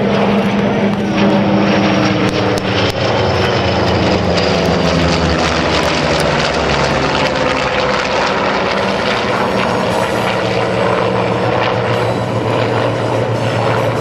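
Formation of radial-engine warbirds, a Douglas Skyraider and a Vought F4U Corsair, flying past together with a Douglas A-4 Skyhawk jet. Piston engines drone steadily, mixed with jet whine, and a high tone slides down in pitch over the first few seconds as they pass.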